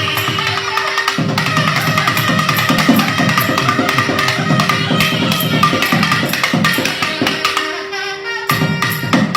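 Nadaswaram playing a melody in Mandari raga over a steady drone, with dense drumming that comes in about a second in and pauses briefly near the end.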